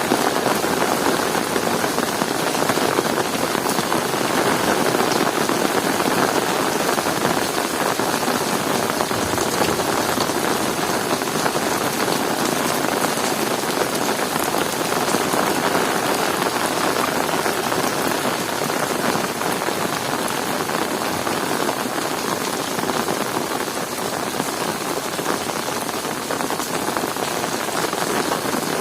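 Heavy rain falling steadily, a dense even patter of drops hitting the ground and surfaces.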